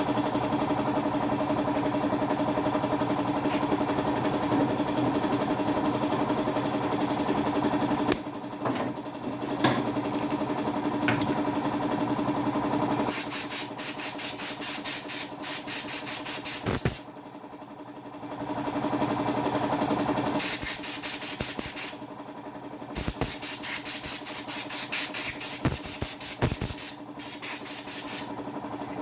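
A small motor running with a steady hum, then several stretches of rapid, even pulsing broken by short pauses.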